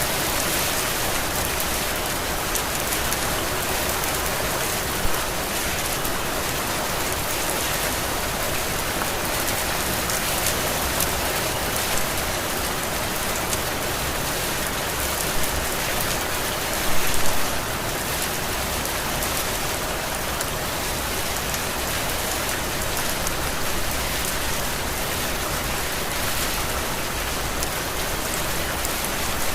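Heavy rain falling steadily, a dense even hiss of drops on surfaces, with a few brief louder drops or knocks, the biggest a little past halfway.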